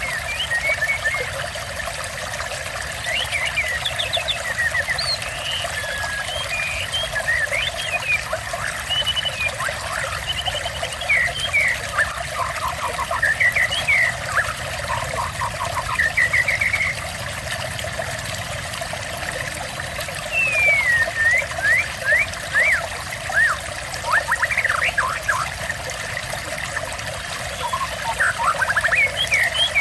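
Water trickling steadily, with small birds chirping and whistling over it in short, quick calls and rapid series.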